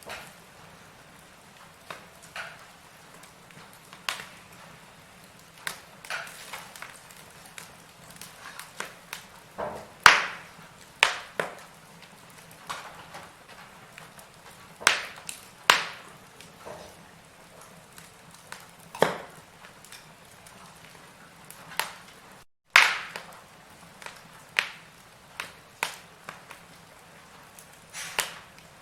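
Burning firewood crackling: sharp pops and snaps at irregular intervals over a faint steady hiss, with the sound cutting out for an instant about three-quarters of the way through.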